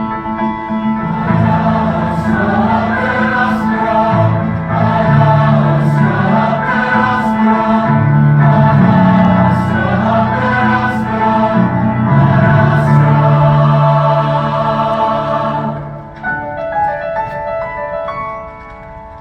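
Choir singing with piano accompaniment, the sung consonants hissing clearly. About three-quarters of the way through the voices stop and the piano carries on alone, more softly.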